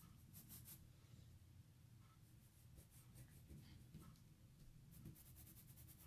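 Faint scratching of coloured pencils stroking on paper during shading. A few strokes come early, then there is a quick run of dense strokes near the end.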